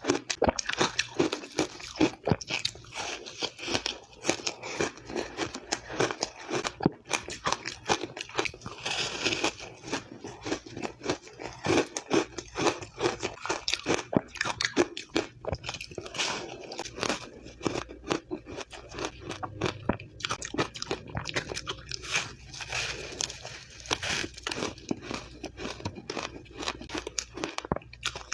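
Someone biting and chewing an ice cake (a solid block of frozen ice), close to the microphone: a continuous run of irregular crunches and crackles as the ice breaks between the teeth.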